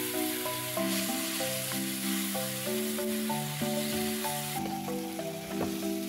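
Tomato-and-chili masala sizzling in oil in a nonstick frying pan as it is stirred with a spatula, a few spoonfuls of water just added to keep it from burning. Background music with a simple melody of steady notes plays over the sizzle.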